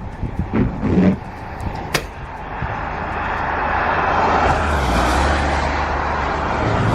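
Strong wind blasting across the microphone, building to a louder gust through the middle, with a sharp click about two seconds in.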